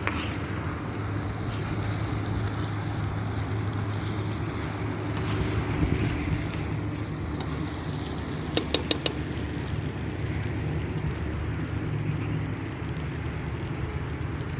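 Steady low outdoor rumble, like wind on the microphone, with four quick knocks in a row a little past the middle.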